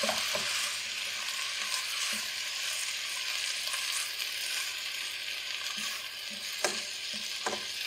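Macaroni and vegetables sizzling in hot oil in a wok while being stirred with a wooden spatula, a steady frying hiss. Two short knocks near the end, most likely the spatula striking the pan.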